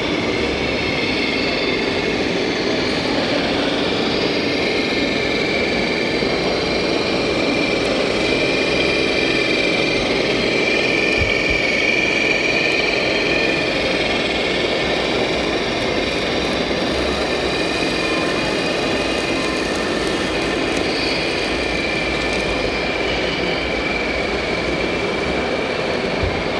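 A motor running steadily, with a constant high whine over a mechanical hum; it does not change in speed.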